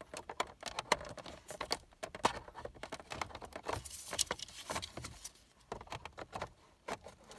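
Irregular sharp plastic clicks, taps and rattles of a Ford Focus Mk2 instrument cluster being worked into the dashboard and its wiring multi-plug pushed on.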